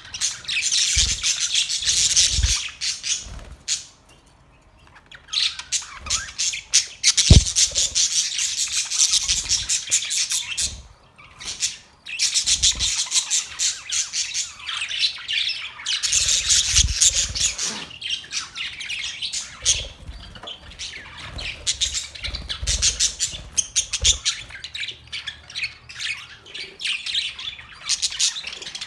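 A group of Australian parrots chattering and squawking in a dense, rapid run of high-pitched calls. The calls break off briefly about four seconds in and again near eleven seconds, with a few dull low thumps among them.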